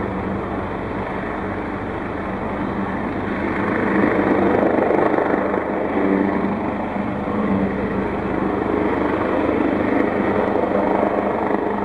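AgustaWestland AW139 helicopter in flight: a steady rotor and engine noise that grows a little louder about four seconds in.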